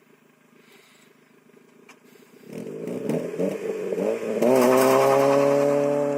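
Honda Civic EF's D16A6 1.6-litre four-cylinder through a stock SRS exhaust: quiet at first, then from about two and a half seconds in the revs are held and bounce up and down against launch control. About four and a half seconds in it launches, and the exhaust note turns loud and steady, climbing slowly in pitch as the car accelerates.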